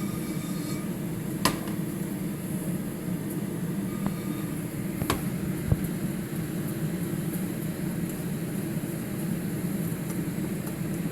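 Steady low hum of a kitchen exhaust fan running, with a few sharp clicks of cookware, at about a second and a half and around five seconds in.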